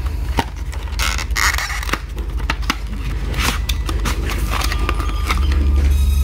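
Crinkling, crackling and clicking of sealed plastic retail packaging being handled and torn open to unpack a new SSD, over a steady low hum.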